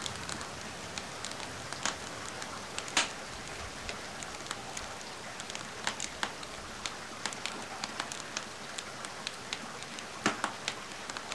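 Steady hiss of rain with a wood fire crackling over it: frequent small sharp pops, with louder cracks about three seconds in and again near the end.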